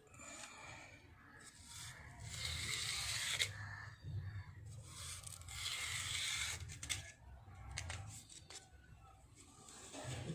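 Long, heavily oiled hair scraping and rasping as it is worked through close up during nit picking: two longer rasping strokes with small clicks between them.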